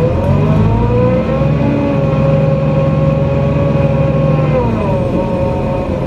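NefAZ-5299 city bus heard from inside the cabin as it accelerates: engine hum with a drivetrain whine that rises, holds steady, then drops away nearly five seconds in as the bus eases off.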